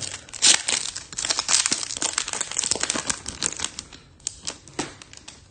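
Trading card pack wrapper being torn open and crinkled by hand, a dense crackling run that thins out near the end.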